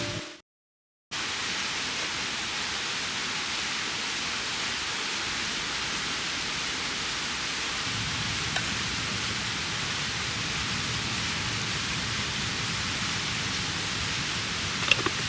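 Mountain stream rushing steadily, after a short cut to silence near the start, with a few faint clicks near the end.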